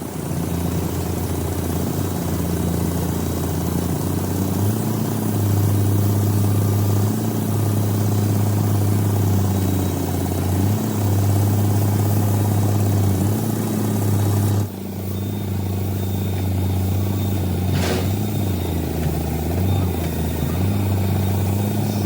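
Car engine running, idling with its pitch stepping up and down several times as it is revved lightly; the sound changes abruptly about two-thirds of the way through, and a single sharp click comes near the end.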